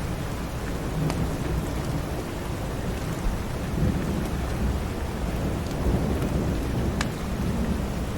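Steady heavy rain with a long, rolling rumble of thunder, swelling about a second in and running on through most of the stretch. A few sharp clicks stand out, the loudest near the end.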